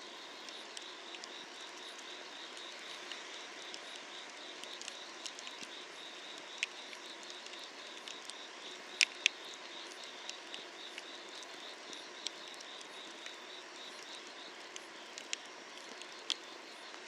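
Wood fire crackling under a cast-iron cauldron, with scattered sharp pops; the two loudest come close together about nine seconds in. A steady insect trill pulses throughout, over a low even hiss.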